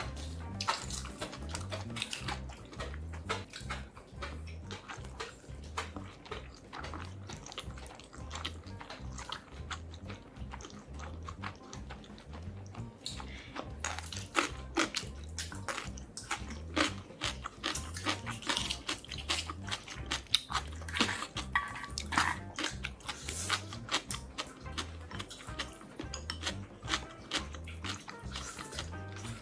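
Close-miked eating: chewing and biting of food, many small wet clicks and crunches, busier in the second half, over background music with a steady low beat.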